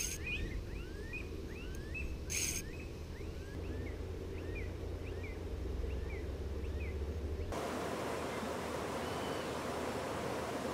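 Small birds chirping repeatedly in short rising calls over a low rumble, with a brief rustle about two seconds in. About seven seconds in, the sound changes abruptly to a steady outdoor hiss.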